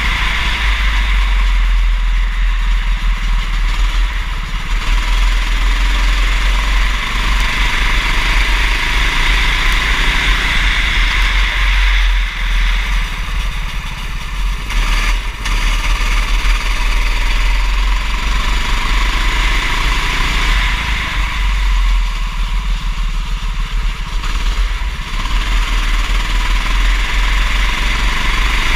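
Racing kart engine running at speed, its revs climbing and falling as it accelerates and brakes through the corners, with an even hiss over it.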